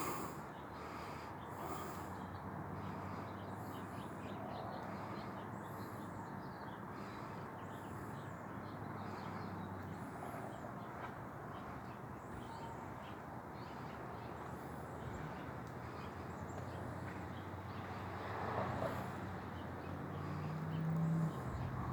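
Faint outdoor ambience: short high-pitched bird chirps every second or two over a low steady hum.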